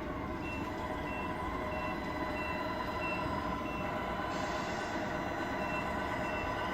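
A Tamiya RC truck's sound unit playing a steady truck-engine drone, with a high reversing beeper sounding about every two-thirds of a second and pausing for about two seconds midway.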